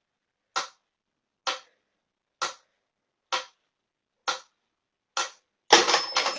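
Sharp ticks or taps, evenly spaced a little under a second apart, followed near the end by a short burst of clattering noise.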